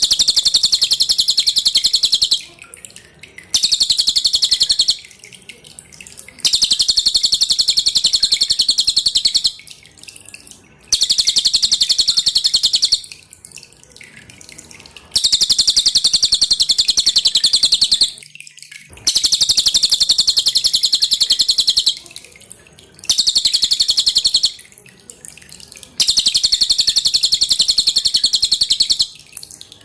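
Cililin singing loud, dense, high-pitched chattering song in repeated bursts of two to four seconds with short pauses between them, over faint dripping water.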